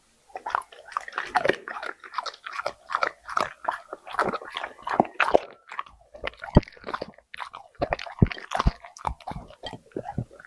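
A dog chewing and crunching something crisp: an irregular run of crunches and bites, several a second, with a short pause a little past halfway.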